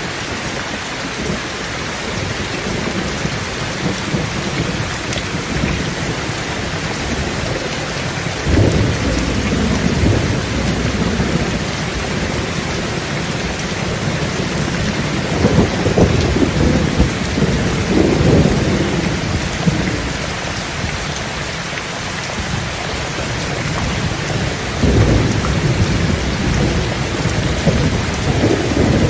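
Thunderstorm: steady rain with low rolls of thunder, the first about a third of the way in, a longer one in the middle, and more near the end.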